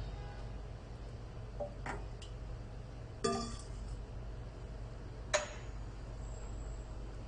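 Glass and metal parts of a coffee press clinking as they are handled after washing: a few separate clinks, the one about three seconds in ringing briefly.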